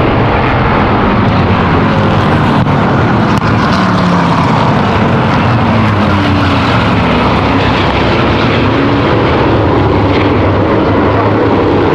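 A field of V8 stock cars and trucks racing on the oval, their V8 engines running loud and steady, the engine notes rising and falling as they go around.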